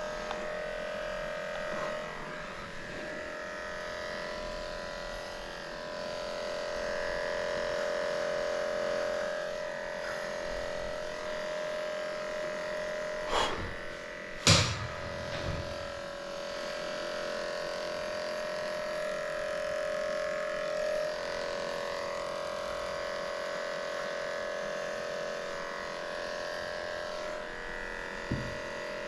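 Electric dog-grooming clippers running with a steady hum, with two sharp knocks about halfway through.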